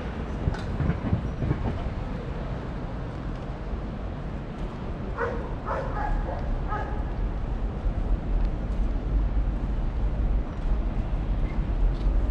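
A dog barks about four times in quick succession, around the middle, over a steady low outdoor rumble.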